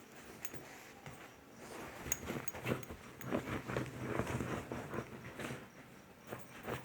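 Small pet dogs making a run of short, rough, irregular noises for a few seconds in the middle.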